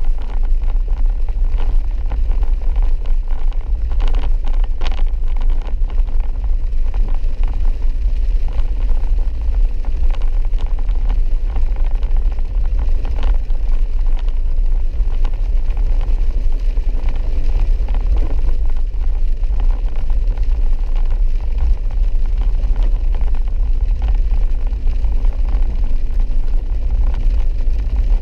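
A four-wheel-drive vehicle driving a wet dirt road: a steady low rumble with occasional knocks and jolts.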